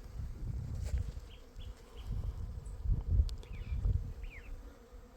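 A swarm of honey bees buzzing close by, under a low, uneven rumble, with a few faint, short high chirps.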